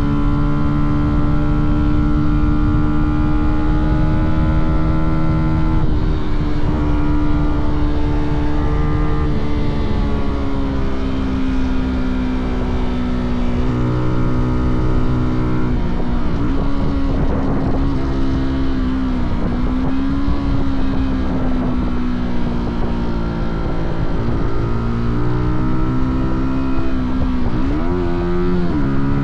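Fantic Caballero 125's single-cylinder four-stroke engine and exhaust running under way. The pitch holds steady for stretches, drops several times and rises again as the revs change, climbing near the end.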